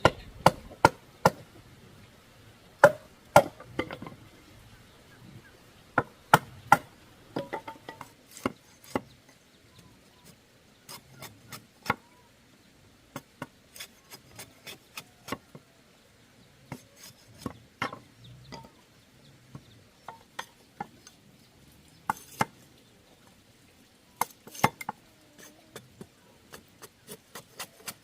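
Sharp knocks and chops on wood at an irregular pace, some in quick clusters. A few of the strikes ring briefly.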